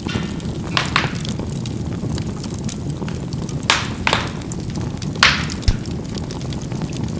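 Charcoal burning in a fireplace: a steady low rumble of the fire with about six sharp crackling pops as the coals burst, the loudest around five seconds in.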